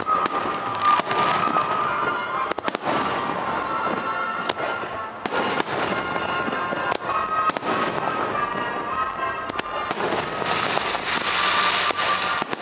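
Fireworks display: aerial shells bursting in quick succession, sharp bangs over a continuous crackle that grows denser near the end. A steady high tone sounds on and off behind the bursts.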